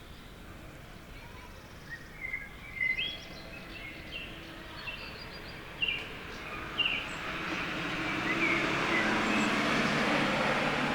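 Birds giving a series of short chirps over a quiet outdoor background; from about seven seconds in, a broad hiss with a low hum underneath swells up and stays loud, covering the calls.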